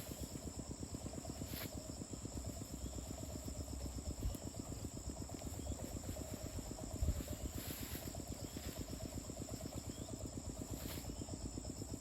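Insects chirring in a steady high drone over a low, fast, even pulsing, with a brief low thump about seven seconds in.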